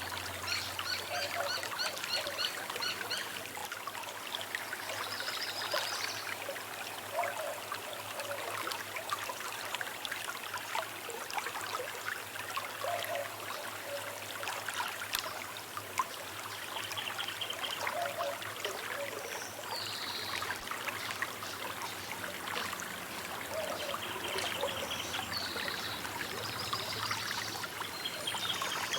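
Small river trickling and babbling steadily, with birds chirping and trilling over the water and a lower short call repeating every few seconds.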